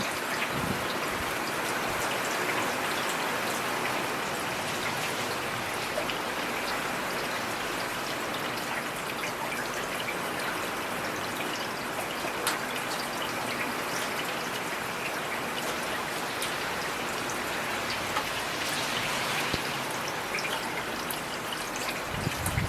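Heavy rain falling steadily: an even hiss with many small, sharp drop hits scattered through it.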